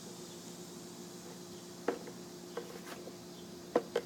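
A steady low hum with a few light, sharp knocks and clicks: one about two seconds in, fainter ones around three seconds, and two louder ones near the end, typical of hand tools and clamps being handled on the wooden canoe form.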